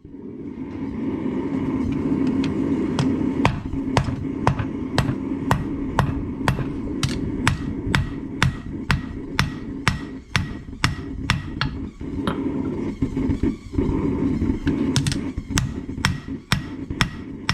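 Hand hammer striking hot 5160 spring steel on an anvil, about two blows a second, over a steady low rumble.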